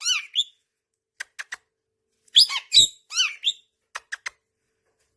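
Pet parrot giving short chirping calls in two brief bursts, one at the start and one about two and a half seconds in, with a few short clicks in between.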